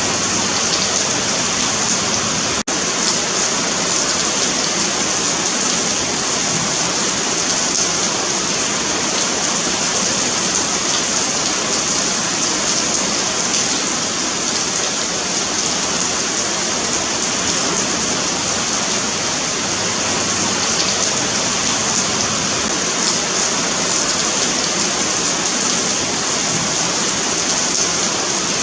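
Steady rain falling on a paved sidewalk, a dense, even hiss of drops. It dips for an instant about two and a half seconds in.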